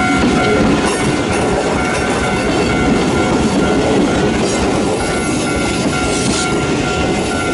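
Ichibata Electric Railway two-car train (ex-Keio 5000 series) passing close by at low speed, its steel wheels clattering over the double-crossover points, with some wheel squeal and a steady high tone running throughout.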